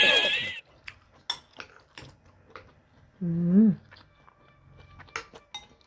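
Scattered small clicks and taps of eating at a table, such as utensils on plates and chewing, with a short hummed "mm" about three and a half seconds in. It opens on the fading end of a loud laugh.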